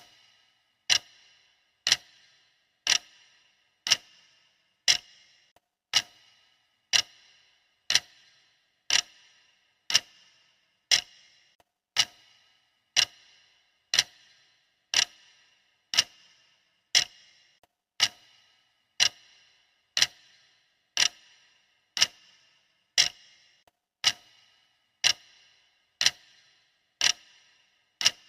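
Clock ticking steadily at one tick a second, each tick a sharp click with a brief ringing tail.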